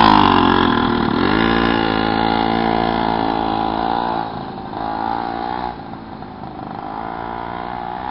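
Mini bike engine running, its pitch dipping and rising again as the throttle is eased and opened, about a second in and twice more past the middle. It grows fainter in the second half.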